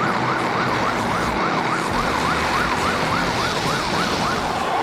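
A siren in a fast wail, its pitch rising and falling about three times a second over a steady background noise; the pattern changes shortly before the end.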